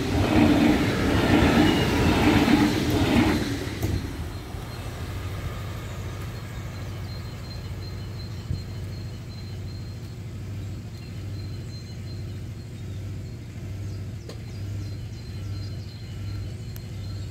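Deutsche Bahn ICE train passing close by, its wheels rolling loudly over the rails for the first three seconds or so. The noise then falls away quickly as the train recedes, leaving a quieter steady rumble with a low pulsing hum.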